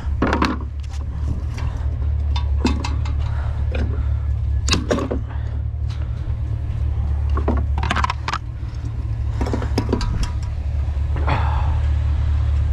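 A vehicle's steady low drone, with irregular sharp clicks and knocks over it.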